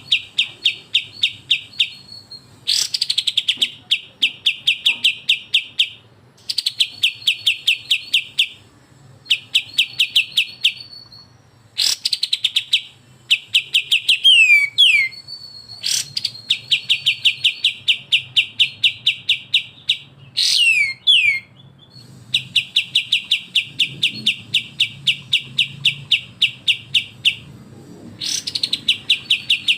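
Bulbul song in its fast 'besetan' style: runs of sharp repeated chips, about eight a second, in bursts of a couple of seconds with short pauses between. Twice there are quick pairs of downward-slurred whistles.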